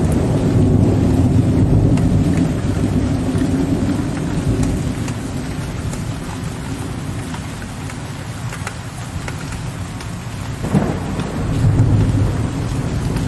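Steady rain with scattered drop ticks and rolling low thunder. The rumble fades through the middle, then a sharp thunderclap near the end sets off another deep rumble.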